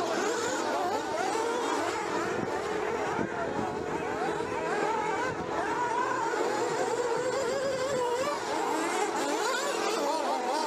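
Several nitro RC buggies' small two-stroke glow-fuel engines running together, their pitches rising and falling over one another as they rev up and back off around the track.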